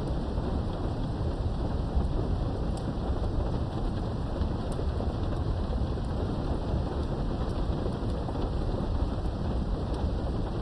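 Steady rain with a continuous low rolling rumble of thunder, heard through a window; faint scattered drop ticks sit over the rain's hiss.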